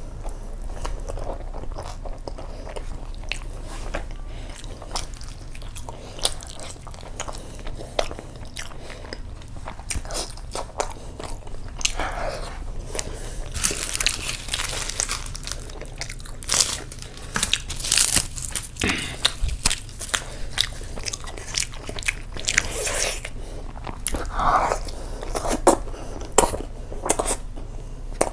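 Close-miked eating sounds of a man biting and chewing curry-soaked butter naan and paratha, with many small wet mouth clicks and smacks. About halfway through comes a loud rustling burst as flaky paratha is torn apart by hand.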